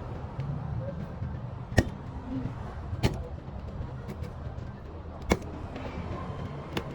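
A steady low hum with four short, sharp clicks or taps spread across a few seconds.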